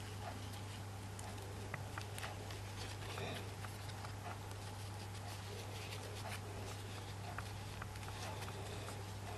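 Faint small clicks and rustles of hands handling threads and craft materials, over a steady low hum.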